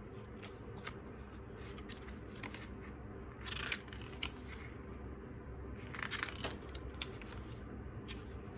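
Packaging handled during an unboxing: scattered light clicks and taps, with two short bursts of rustling or tearing, about three and a half and six seconds in, over a steady low hum.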